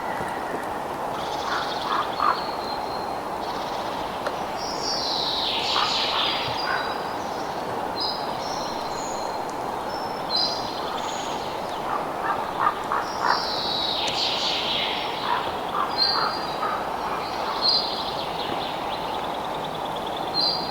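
Night-time nature ambience: a steady background hiss with animal calls over it. High, falling calls come about every four seconds, with short high chirps and quick clicking bursts between them.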